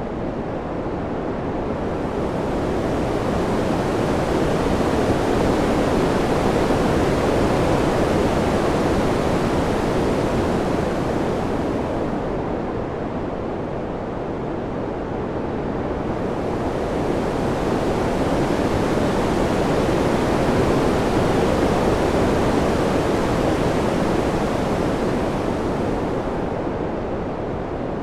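Steady rushing wind that swells and eases slowly, rising to a peak twice and falling back between.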